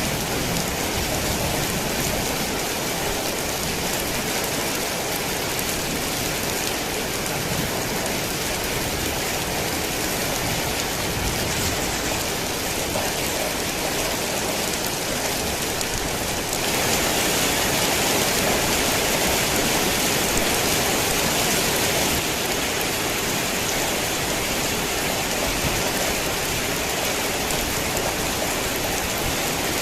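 Heavy rain falling steadily, a dense even hiss of rain on surfaces. It grows louder and brighter for several seconds a little past halfway, then eases back.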